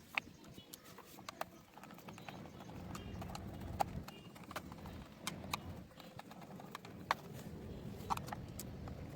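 Small screws being fitted and tightened with a hand screwdriver into a plastic toy car body: scattered light clicks and taps of metal on plastic, over a soft low rubbing of handling.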